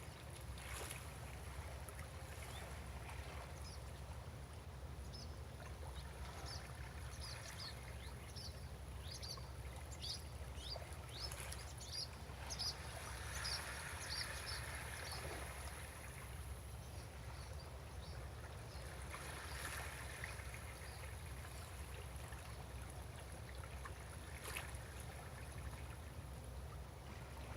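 Gentle sea water lapping and splashing against a breakwater, swelling a little twice in the middle, over a steady low rumble. A bird calls in a quick run of high chirps during the first half.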